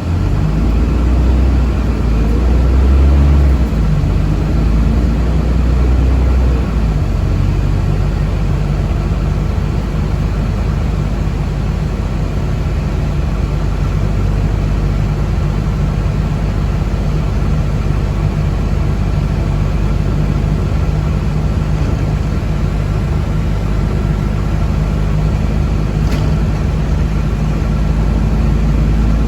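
Steady running noise heard inside a moving city bus, with a heavier low rumble for the first seven seconds or so and a faint steady high whine.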